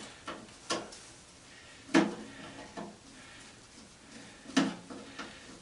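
Scattered sharp clanks and knocks of a hand tool against metal as a screwdriver is picked up and worked into a gummed-up screw slot on an old electric fan's housing. The two loudest knocks come about two seconds in and about four and a half seconds in.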